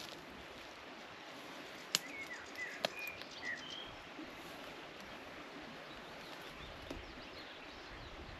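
Small birds chirping in woodland over a steady outdoor background, with a few short calls between about two and three and a half seconds in. Two sharp clicks come about two and three seconds in.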